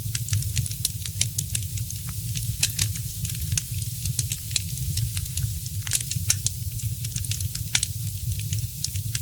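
Wood fire in a fireplace crackling: frequent irregular sharp pops and snaps over a steady low rumble and hiss of the burning logs.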